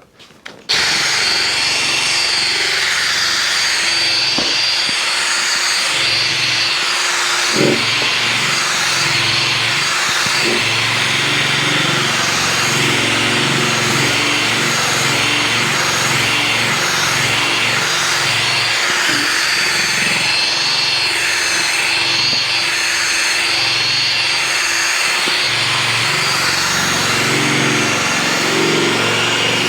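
Power drill spinning a polishing pad against a plastic motorcycle windshield, a steady whirring grind that starts a moment in and runs on without a break, with a couple of light knocks along the way.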